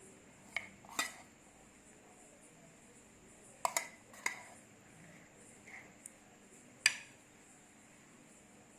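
A metal utensil clinking and tapping against dishes: about eight short, sharp clinks spread unevenly, the loudest near the end, over quiet room tone.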